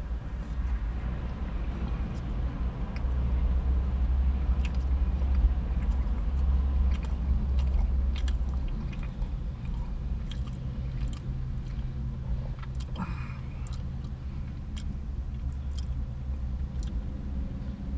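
A man chewing a mouthful of a chicken-and-doughnut sandwich, with scattered wet mouth clicks, over a steady low hum inside the car's cabin.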